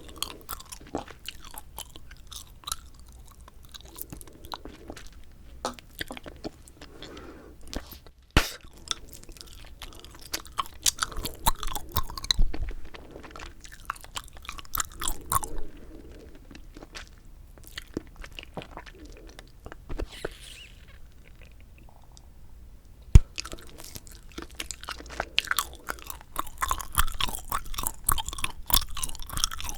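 Close-miked chewing of bubble gum: irregular wet clicks and snaps, with quieter stretches, a single sharp snap about two-thirds of the way through, and busier, louder chewing near the end.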